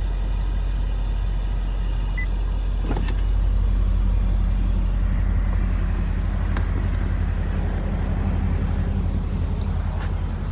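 2006 Corvette C6's 6.0-litre LS2 V8 idling steadily soon after a cold start, with an even low exhaust pulse.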